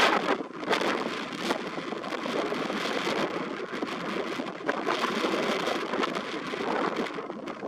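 Strong, gusty wind rustling through a stand of reeds: a steady rushing noise that swells and dips with the gusts.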